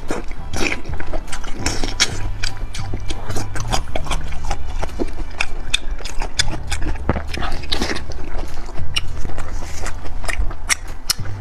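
Close-up eating sounds of someone chewing a chunk of cooked meat: a dense run of sharp wet mouth clicks and smacks. Low background music with held bass notes plays underneath.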